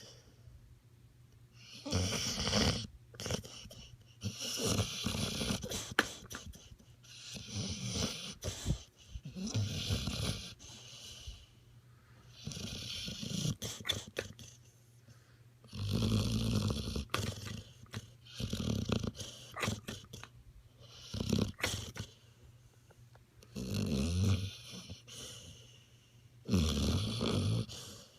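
Pit bull snoring in its sleep: slow, regular snoring breaths every two to three seconds with quiet gaps between. Some breaths carry a low fluttering rumble, others are mostly airy.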